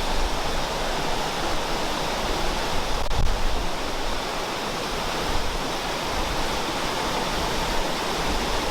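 Waterfall, a steady rush of water falling onto rock.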